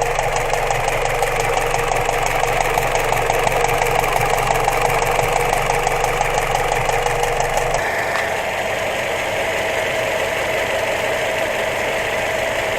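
Mitsubishi Lancer X engine idling with a rapid, regular knock. About eight seconds in the low hum drops away and the knock becomes fainter.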